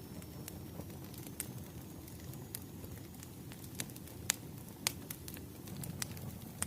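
Bonfire crackling: a steady low rush of burning wood, broken by scattered sharp pops, the two loudest a little past the middle.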